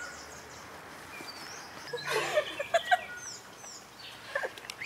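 Birds calling and chirping in the trees, with short high chirps throughout and a louder run of varied calls about two seconds in.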